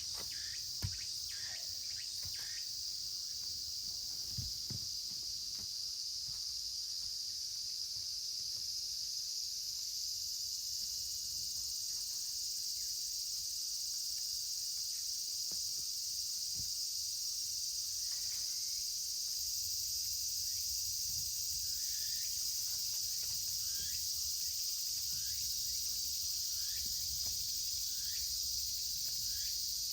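Steady high-pitched chorus of insects trilling. A few soft knocks in the first seconds, and short faint chirps in the second half.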